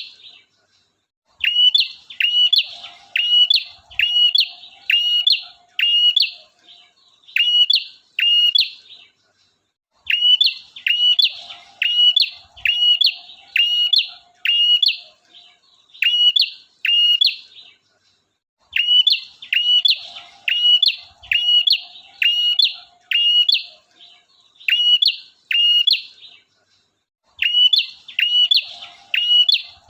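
Male prenjak (prinia) singing: loud, sharp, repeated chip notes about two a second, in long bouts broken by short pauses, with a fainter low rattle near the start of each bout.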